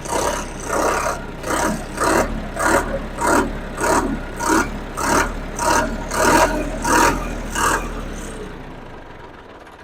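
Cold diesel tractor engine running and being revved in quick regular swells, about one and a half a second, to bring out its tappet (valve clearance) noise; the engine sound dies away near the end.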